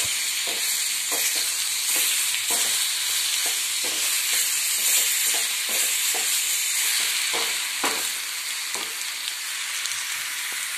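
Onion, tomato and green chilies sizzling in hot oil in a kadai as a spoon stirs them, with a steady hiss. The spoon scrapes and knocks against the pan about once a second.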